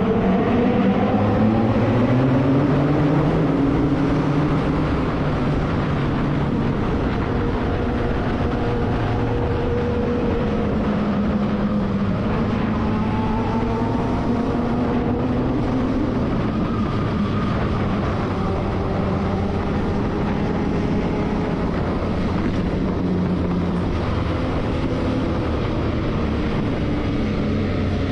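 Motorcycle engine running, its pitch rising and falling slowly several times with the throttle.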